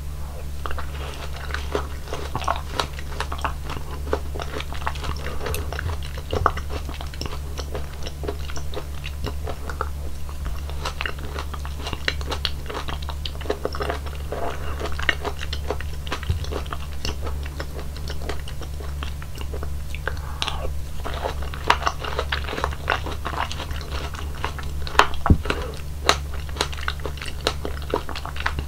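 Close-miked chewing of a mouthful of fruit punch (watermelon, dragon fruit and other soft fruit in juice), with wet, crunchy bites and juicy mouth sounds. A few sharper clicks come near the end. A steady low hum runs underneath.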